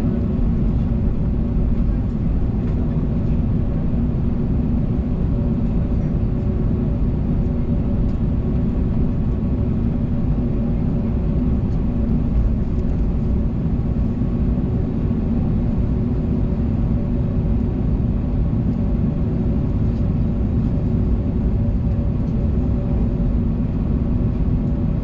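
Steady low rumble inside the cabin of an Airbus A321neo taxiing after landing, engines at idle, with faint steady humming tones above the rumble.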